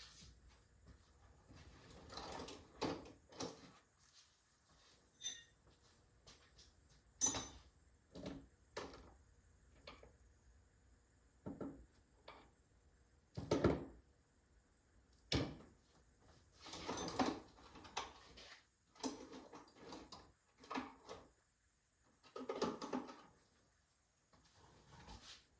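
Tools being handled and rummaged through in a workshop: scattered clanks, knocks and rustles, with a sharp metallic clink about seven seconds in.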